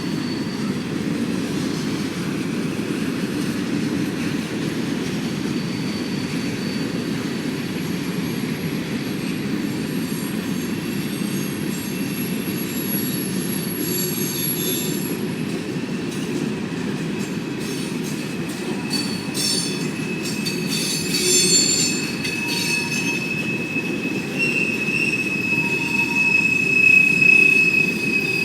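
Freight train cars rolling past with a steady rumble, and thin high-pitched wheel squeal coming and going. A run of clicks comes about two-thirds of the way through, and a stronger, steady squeal builds near the end.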